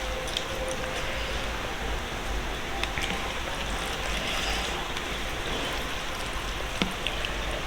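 Steady rushing hiss in the background, with a few faint clicks and small smacks from someone eating.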